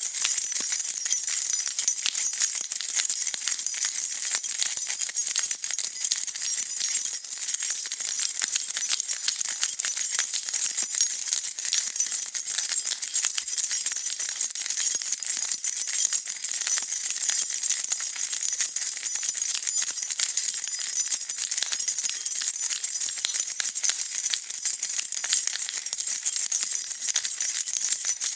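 A bunch of metal keys on a key ring being shaken continuously, a dense, steady jingling of many small clinks.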